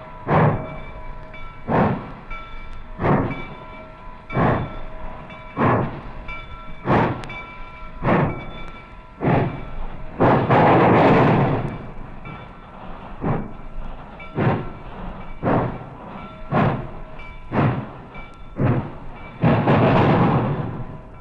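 Steam locomotive working slowly under load, with heavy, even exhaust chuffs about one every second and a quarter. Twice, about ten seconds in and near the end, a longer blast of steam lasting a second or two drowns the beat.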